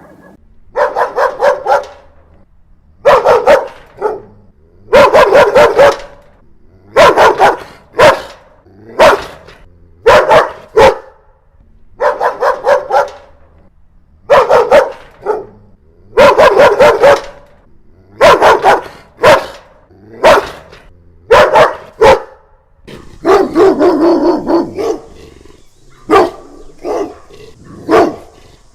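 A dog barking over and over, in single barks and quick runs of three or four, a second or two apart, with one longer, lower call about 23 seconds in.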